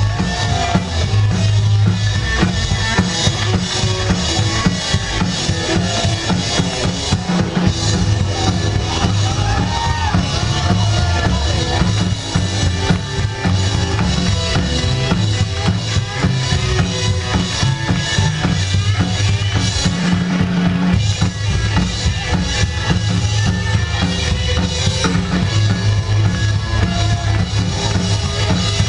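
Live rockabilly band playing, with a drum kit driving a steady beat under bass and guitar.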